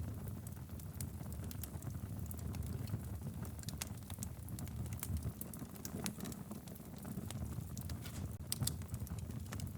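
Wood fire burning in a fireplace: a steady low rumble of flames with frequent sharp crackles and pops of the burning logs.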